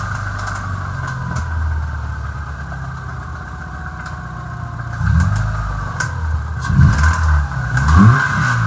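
2001 Subaru Forester's EJ25 flat-four boxer engine running just after start-up and blipped up and down several times in the second half, with some sharp knocks. The owner has found it knocking on the crank, a sign of a failing rod or crank bearing.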